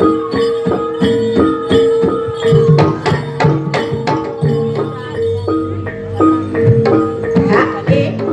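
Javanese kuda lumping (jaranan) ensemble music with no singing: hand drums over struck metal gamelan keys in a busy repeating pattern.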